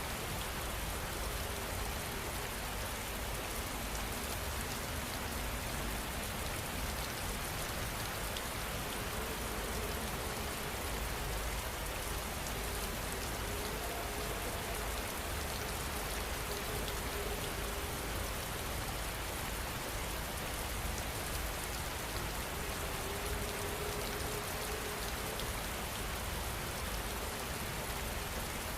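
Steady rainfall, an even hiss of drops falling on surfaces without a break.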